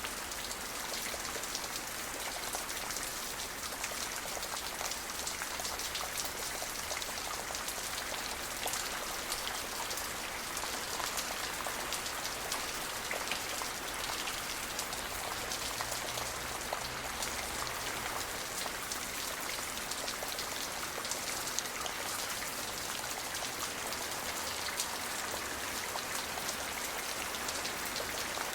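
Steady rain falling, an even hiss with many individual drops striking close by.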